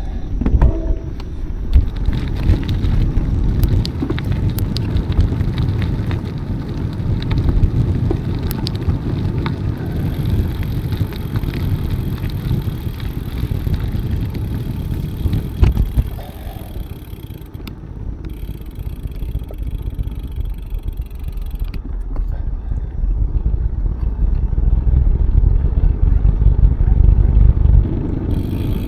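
Bicycle riding noise: wind rumbling on the microphone, with scattered clicks and rattles from the bike, getting louder in the last few seconds.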